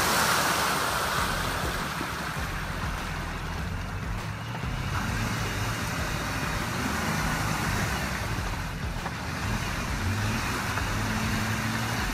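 Jeep Wrangler's engine revving in deep mud, its revs rising and falling as the wheels spin and churn without getting out. A spray of mud is loudest at the start.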